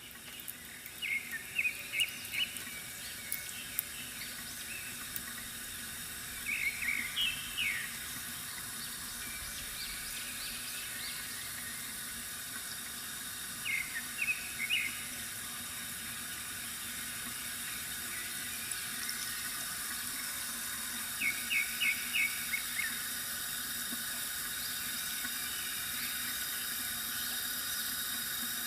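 Water running and trickling steadily from a bamboo fountain, fading in over the first couple of seconds. Four short bursts of bird chirps come at intervals of roughly six to seven seconds.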